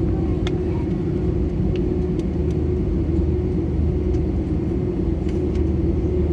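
Airbus A320 cabin noise: a steady low drone with a held hum and a few faint clicks.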